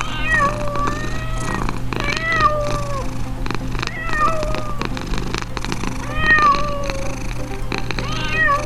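Domestic cat meowing repeatedly: about five drawn-out, pitch-bending meows roughly two seconds apart, over a steady low hum.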